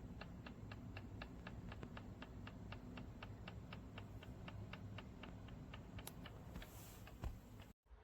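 Faint, evenly spaced mechanical ticking, about four clicks a second, over a low hum, ending with a single louder knock near the end.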